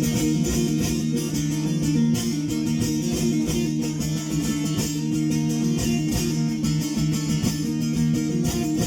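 Bağlama (saz) playing an instrumental passage of semah music between sung verses: fast, dense strumming over steady ringing low notes.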